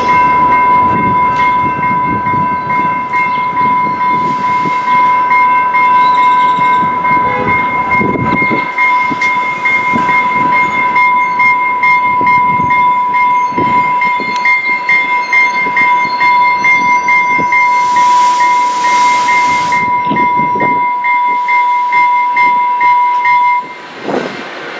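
Train passing close: rumble and clicking of wheels under a steady high-pitched tone that cuts off about a second before the end, with a brief hiss around the middle.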